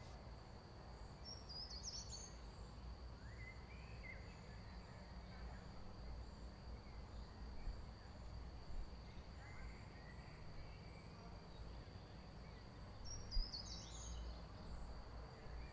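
Quiet garden ambience with a few short bird chirps now and then, a cluster near the start and another near the end, over a faint steady high-pitched tone.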